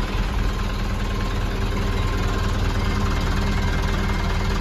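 Diesel engine idling steadily, a heavy, even hum with no change in speed.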